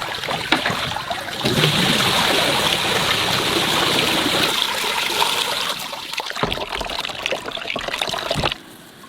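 Water running and splashing, cutting off suddenly near the end.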